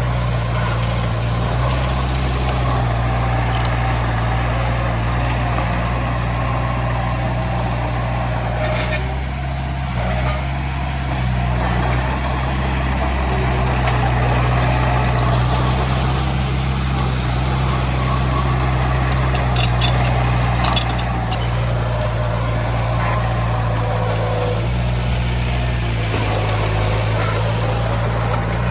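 Heavy diesel engine of construction machinery running steadily with a low, even drone. There are a few short clanks about 9 seconds in and again around 20 seconds.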